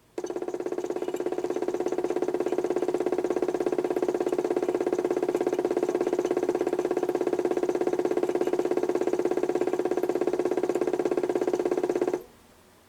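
A modified toy washing machine's 775 DC motor runs at a steady speed, with a steady hum and a fast, even pulse, then cuts off suddenly about twelve seconds in.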